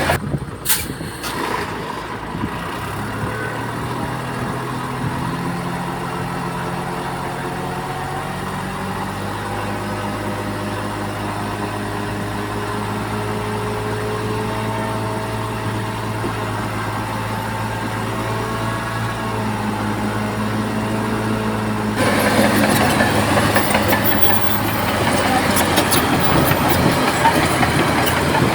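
Bulldozer's diesel engine running steadily, its pitch drifting slowly up and down as the load changes. About 22 seconds in, the sound switches abruptly to a louder, noisier clatter.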